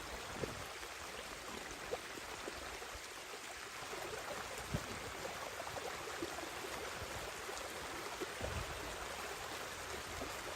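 Steady hiss of falling rain, with a few scattered louder drop ticks.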